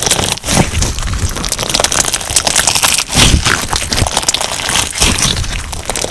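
Crunchy slime packed with sugar beads being squeezed and kneaded by hand: a dense, continuous crackling and crunching of the beads, with a few heavier presses that add a low squish.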